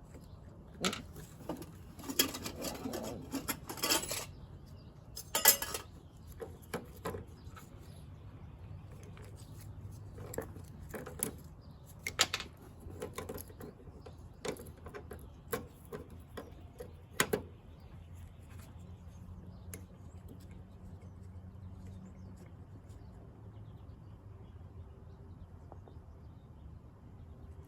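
Scattered metal clinks, taps and short scrapes of hand tools working on a broken spreader part, irregular and spaced out, busiest in the first few seconds.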